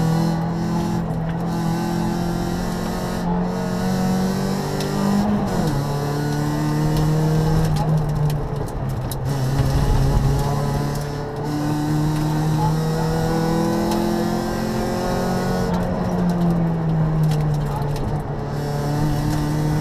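Rally car engine heard from inside the cabin, driven hard on a stage. The note climbs steadily under acceleration and drops sharply at gear changes or lifts, several times over.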